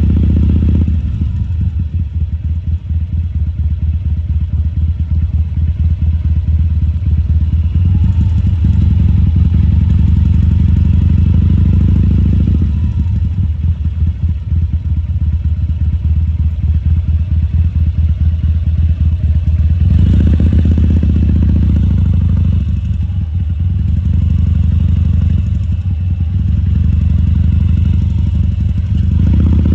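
2014 Harley-Davidson Sportster 1200 Custom's air-cooled V-twin running with its low, pulsing rumble, the throttle opened briefly a few times, most clearly about twenty seconds in.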